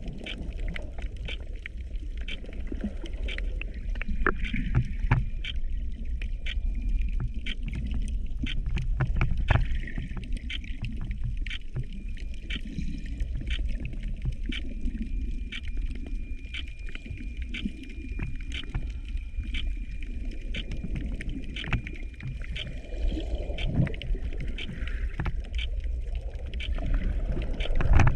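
Underwater sound picked up by a GoPro camera in the shallow sea: a steady low rumble of moving water with many sharp, irregular clicks and crackles throughout. A faint steady high whine runs through the middle part.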